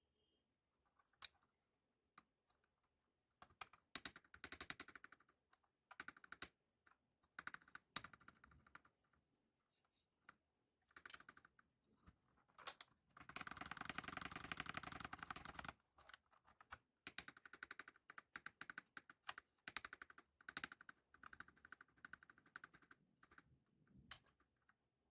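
Typing on a Redragon K596 mechanical keyboard with Akko CS Lavender Purple tactile switches and HyperX PBT pudding keycaps: bursts of keystrokes separated by short pauses, with a dense run of rapid keystrokes lasting a couple of seconds about halfway through.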